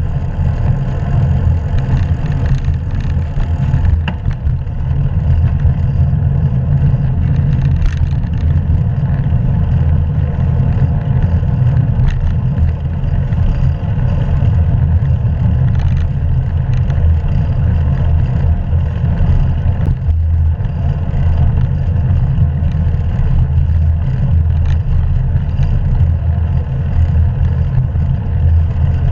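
Steady, loud low rumble of wind buffeting the action camera's microphone on a moving bicycle, mixed with road noise.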